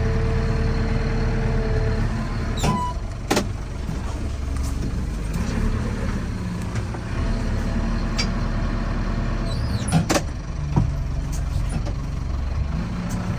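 Fermec backhoe loader's diesel engine running steadily under a little throttle as it drives and turns, with a few sharp clanks.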